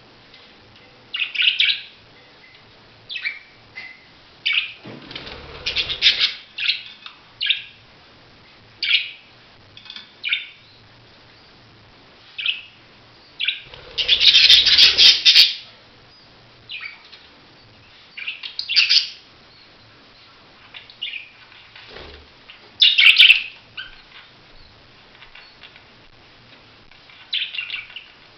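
Budgerigars chirping in short, scattered calls, with two longer, noisier bursts partway through.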